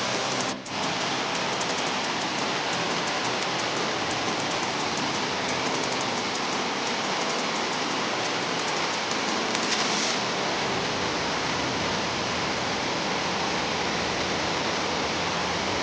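Steady rushing water of a waterfall, an even hiss with a brief dropout about half a second in.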